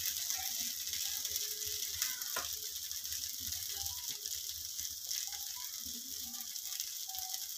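Crumbled idli with onion and green chilli sizzling quietly in oil in a metal kadai: a steady hiss with faint fine crackles, and one light click about two and a half seconds in.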